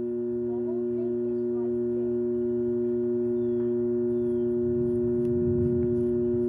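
A steady hum of two held tones with a low rumble beneath, unchanging throughout, with a few faint short chirps about a second in.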